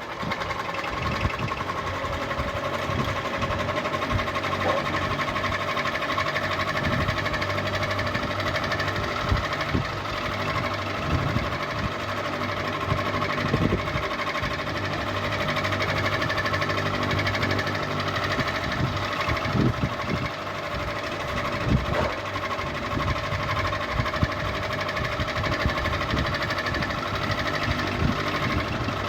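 Ceiling fan running steadily: a continuous motor hum with several steady tones, broken by irregular clicks and knocks.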